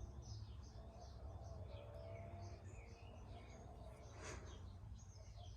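Faint birds chirping in many short calls over a steady low hum, with one brief rush of noise about four seconds in.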